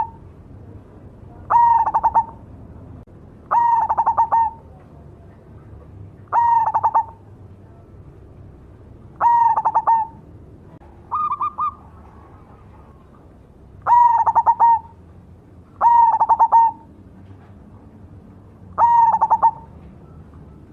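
Zebra dove (perkutut, black cemani variety) singing: about eight short, stuttering coo phrases repeated every two to three seconds. One phrase about eleven seconds in is shorter and higher.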